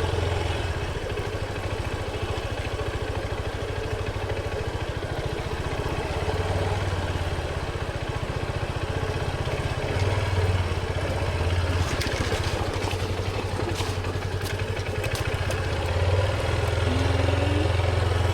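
Honda XR150L's single-cylinder four-stroke engine running steadily at low revs, with a few light clicks in the second half.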